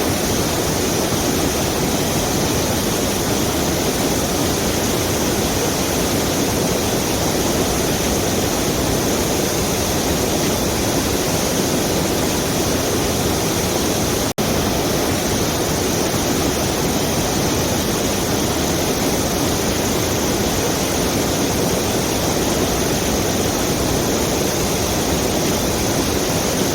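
Small waterfall pouring into a river: a steady rush of falling water, broken by a momentary dropout about halfway through.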